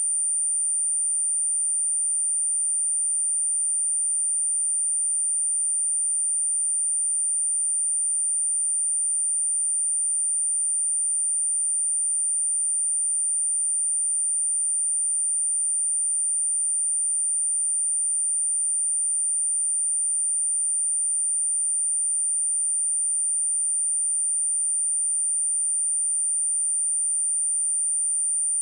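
A pure 9078 Hz sine-wave test tone, one steady high-pitched whistle held at constant pitch and level, used to test speakers and to shake water and dust out of them.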